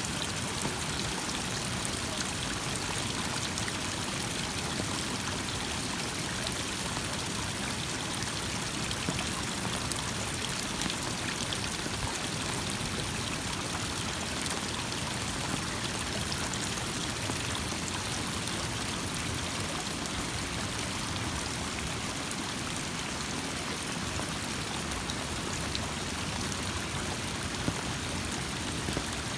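Steady rush of running water, an even noise that neither swells nor fades.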